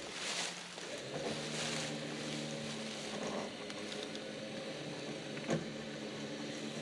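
Winch motor running steadily under load, dragging the seized tractor along its boards, with a sharp knock about five and a half seconds in.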